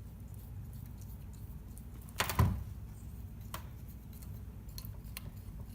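Brake caliper bracket and its hardware clips being handled while brake lubricant is worked onto the clips: one sharp metal knock about two seconds in, then a fainter click and a couple of light ticks, over a low steady hum.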